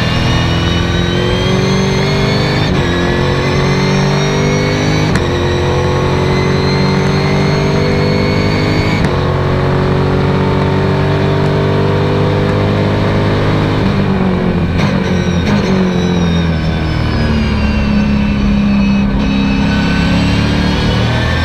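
Race car engine heard from inside the cabin, accelerating hard: the note climbs and drops sharply at each of three upshifts. About two-thirds in it falls away through a quick run of downshifts, then climbs again.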